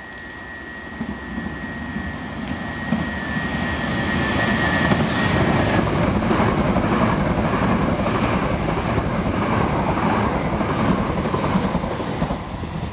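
Class 377 electric multiple unit running through the station at speed. A thin, steady high singing of the rails comes ahead of the train, then the rush and rumble of the train passing close by with a rhythmic wheel clatter, easing off near the end.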